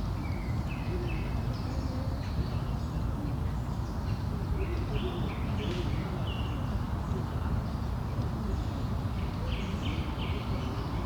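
Birds calling in three short runs of quick chirps, over a steady low background rumble.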